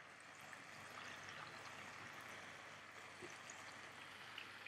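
Faint, steady sizzle of chicken thighs frying in oil in a pan.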